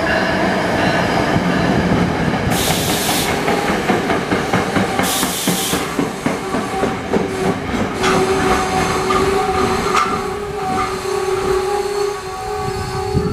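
NJ Transit Comet commuter coaches rolling past on an electrified line as the train pulls into a station, their wheels clattering over the rail. There are two short bursts of air hiss near the start, and in the second half a steady squeal sets in as the train slows to stop.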